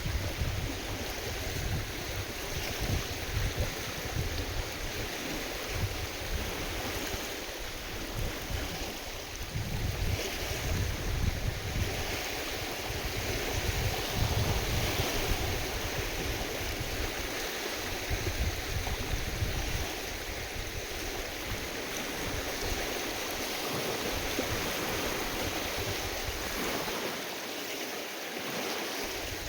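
Lake water sloshing and splashing in waves driven by strong wind, with gusts buffeting the microphone in an uneven low rumble.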